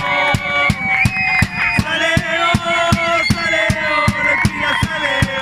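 Crowd of supporters singing a chant in unison over a drum beaten steadily about three times a second.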